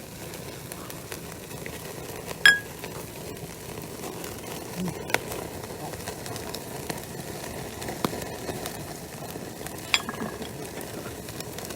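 Wood fire crackling steadily with a few sharp pops, and a loud ringing clink, like glass or crockery knocked together, about two and a half seconds in, with a fainter one near the end.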